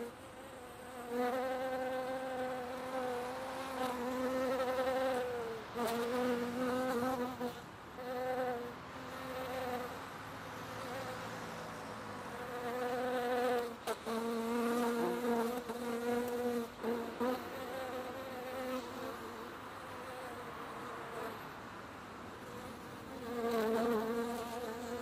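Bees buzzing among flowering shrubs. The buzz swells and fades again and again as bees fly close to the microphone and away, louder near the start and end and fainter in between.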